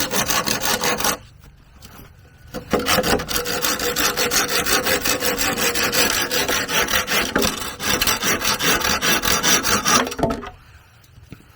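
Hand tool rasping back and forth on wood in rapid, even strokes. One run ends about a second in; after a short pause the strokes start again and run until near the end.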